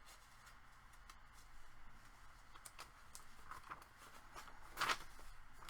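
Faint handling of a handmade paper journal: light taps and soft rustles of paper as its pages are turned, with a louder brief rustle about five seconds in.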